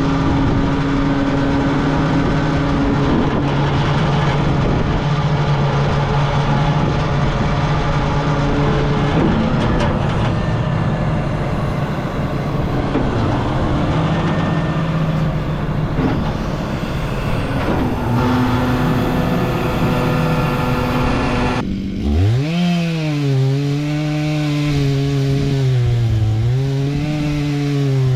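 Heavy machinery running steadily: engine and hydraulics under load, full of noise. About 22 s in the noise drops away and a clear saw-like drone takes over, rising in pitch and then wavering up and down.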